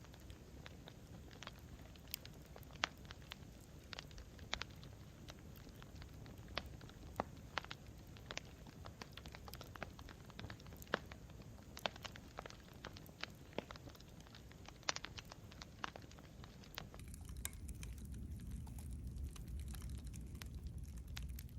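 Campfire burning wood, crackling with sharp, irregular pops over a low steady rumble of the flames. About seventeen seconds in, the pops thin out and the low rumble grows louder.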